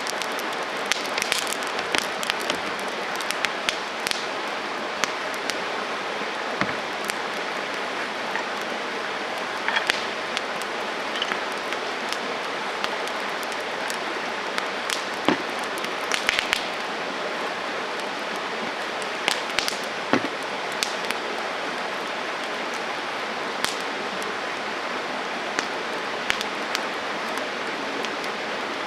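Wood campfire burning: a steady hiss with frequent crackles and scattered sharp pops, a few louder pops about 10, 15, 16 and 20 seconds in.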